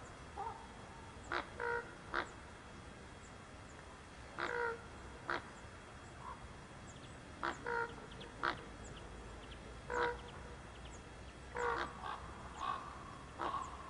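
Common ravens giving short croaking calls, one at a time or in quick clusters of two or three, every second or two.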